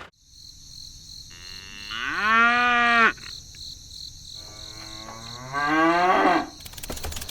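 A cow mooing twice: the first call rises and holds for about a second, the second climbs steadily in pitch, over a steady high-pitched whine.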